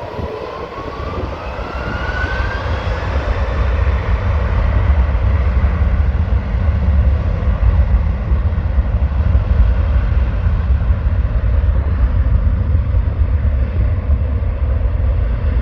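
Airbus A330 jet airliner taking off: its engines' whine rises in pitch over the first couple of seconds as the noise builds, then settles into a steady, loud, deep rumble at take-off thrust.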